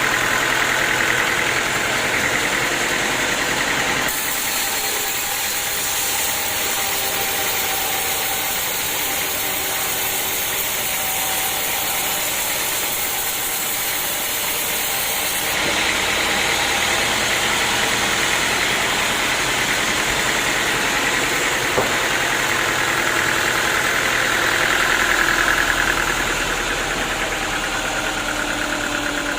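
Sawmill engine running steadily. The sound changes abruptly about four seconds in and again a little past halfway.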